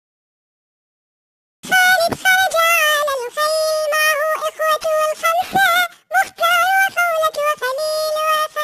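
Silence for about a second and a half, then a high, pitched-up voice sings an Arabic alphabet song for children, the Talking Ginger app's raised-pitch repeat of a recorded voice. It breaks off briefly about six seconds in.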